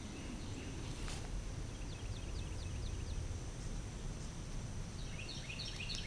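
Outdoor ambience over a steady low background noise, with a bird giving a quick series of about six short descending chirps around two seconds in and more bird chirping near the end.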